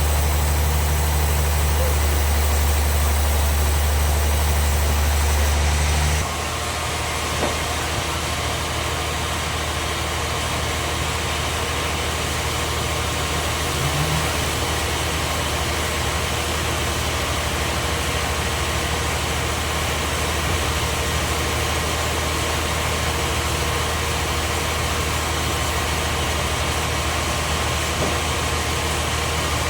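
Band sawmill machinery running steadily. About six seconds in, a heavy low hum cuts off and the machine runs on slightly quieter, with a thin steady whine.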